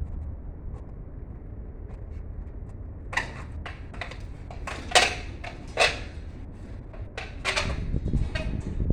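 A low steady hum, then an irregular run of sharp knocks and clacks of hard objects starting about three seconds in, the loudest two near the middle.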